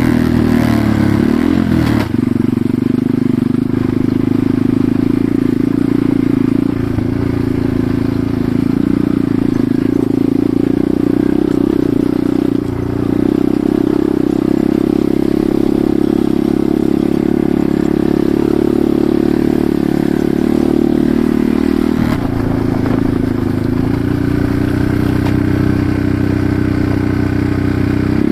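Enduro motorcycle engine running under way, with a steady drone whose pitch dips and climbs again as the throttle changes, about two seconds in and again a little past twenty seconds.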